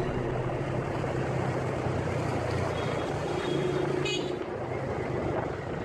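A motorcycle engine running on the move, over steady road and wind noise, its note dipping briefly and then picking up again. A short high-pitched sound cuts in about four seconds in.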